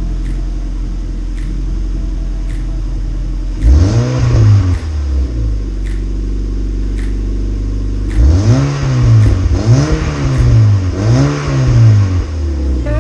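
Mazda MX-5 NC four-cylinder engine idling through an unbranded aftermarket rear silencer, revved once about four seconds in and then three times in quick succession from about eight seconds in, each rev rising and falling back to idle.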